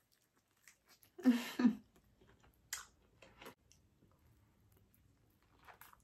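Close-up eating sounds of crispy breaded fried chicken being bitten and chewed: one loud crunchy bite about a second in, then a few quieter crunches and wet mouth clicks while chewing.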